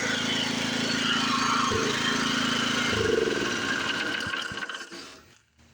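A Honda small engine running a GM alternator, with a steady engine tone. About three seconds in the tone breaks up, and the engine winds down and stops near the end.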